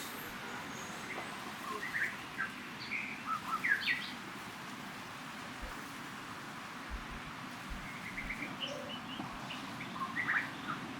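Birds chirping: short high chirps in two bursts, about two to four seconds in and again near the end, over a steady outdoor hiss.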